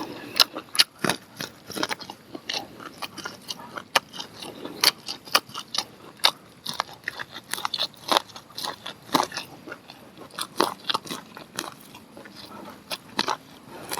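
A person biting and chewing grilled corn on the cob: irregular crunchy clicks as kernels are bitten off the cob and chewed.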